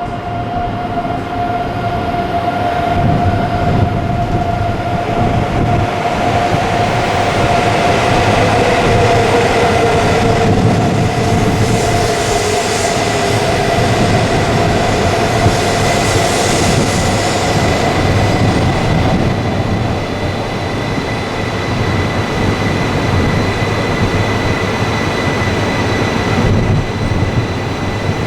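Shinkansen train running past at a station platform: a steady electric-motor whine, part of which falls in pitch midway, over a swelling rush of wheel and air noise. Gusts of wind buffet the microphone throughout.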